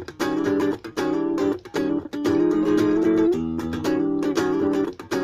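Ibanez AXS42 guitar, rewired with vintage-style solid-core wire, played in chords: a run of strummed strokes with notes ringing between them.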